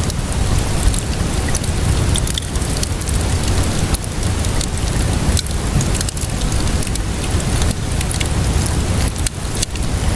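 Steady rainfall mixed with a crackling wood fire: a dense, even hiss of rain with frequent sharp pops and snaps, over a deep steady rumble.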